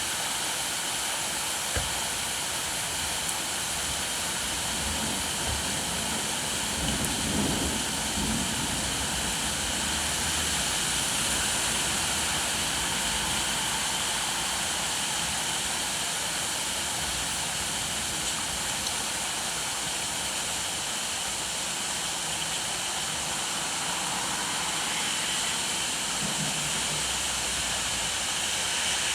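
Steady rain falling, a constant even hiss. A brief low rumble swells and fades about seven seconds in.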